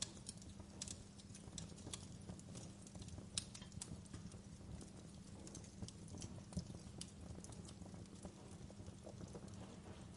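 Wood fire crackling in a fireplace: irregular sharp pops and snaps over a low, steady hiss and rumble of the burning logs.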